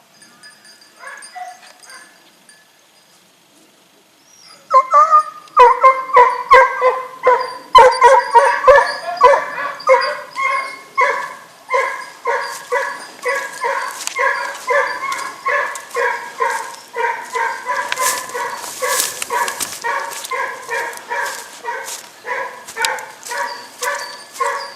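Hunting dog barking: after a few quiet seconds it starts about five seconds in and keeps up a loud run of repeated barks, roughly two a second, as the dogs work a scent trail.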